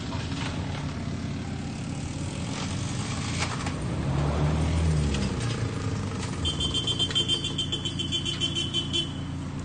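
Honda Civic engine running with a knocking connecting rod, revved up and back down about four to five seconds in. Near the end comes a rapid, high-pitched pulsing beep for about two and a half seconds.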